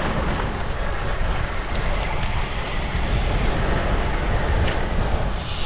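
Wind buffeting the microphone while riding, a steady low rumble; a higher hiss joins near the end.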